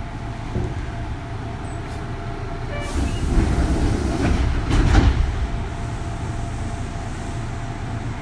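Kintetsu 3200 series electric train heard from inside a motor car while running: a steady low rumble with a faint steady tone, and a louder rush of wheel and track noise from about three to five seconds in.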